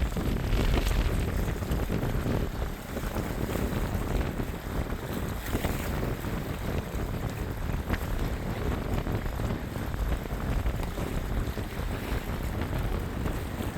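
Strong wind buffeting the microphone: a steady, rumbling rush of noise that rises and falls slightly with the gusts.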